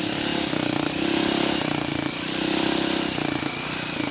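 Dirt bike engine running at low, fairly even revs while riding on dirt, the pitch rising and dipping slightly a couple of times.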